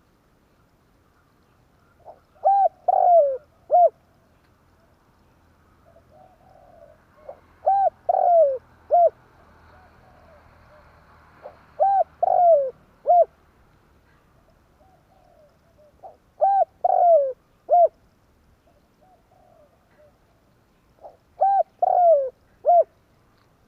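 Spotted dove (tekukur) cooing, the call used as a lure to draw wild doves. It gives five phrases about five seconds apart. Each phrase is a couple of short coos, a longer falling coo, then one short closing note.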